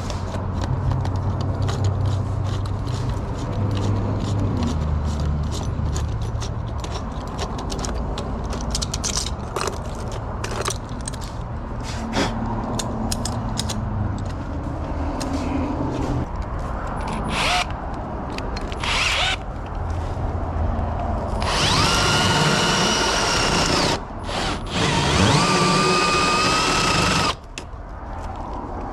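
Power drill run twice near the end, about two to three seconds each, with a steady motor whine. Before that, a low steady rumble with scattered clicks.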